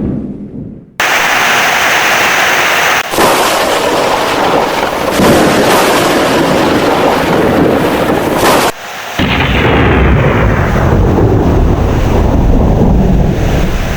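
Heavy rain with thunder. The sound fades almost to nothing in the first second, then the downpour comes in abruptly, with brief cuts at about three seconds and just before nine seconds. After the second cut a deep rumble of thunder runs under the rain.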